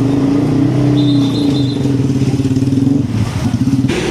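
Heavy truck's diesel engine running close by, its pitch dipping and rising slightly, with a change in its note about three seconds in.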